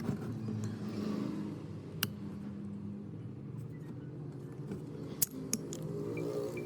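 A motor or machine running with a steady low hum, with a few sharp clicks, about two seconds in and again around five seconds.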